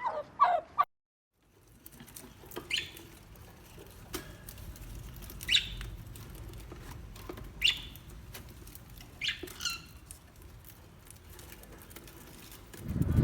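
A loud animal call breaks off under a second in; after a short silence come five brief, high squeaks that fall in pitch, spread over about seven seconds, over faint background noise.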